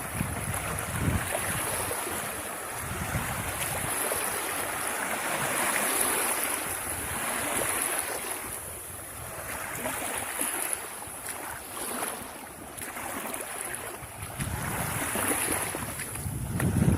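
Small sea waves washing on the shore in repeated swells, with wind gusting on the microphone near the start and near the end.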